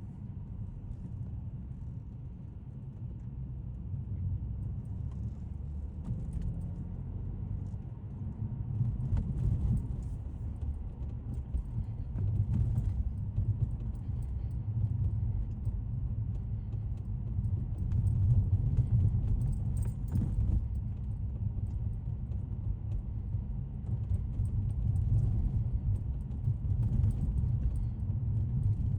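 Audi S5's supercharged 3.0 V6 and road noise heard from inside the cabin while driving: a low rumble that rises and falls in level, with faint light rattles now and then.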